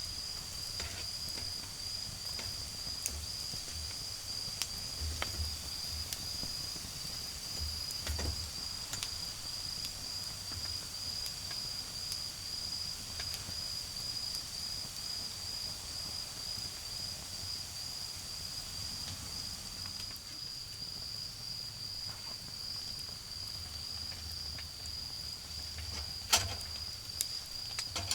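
Autumn crickets trilling in one unbroken high-pitched note, with scattered crackles and pops from a smouldering wood fire; one louder pop comes near the end.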